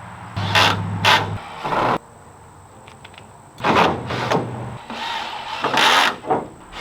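A small motor running in two short spells of about a second each, near the start and around the middle, among several short scrapes and knocks.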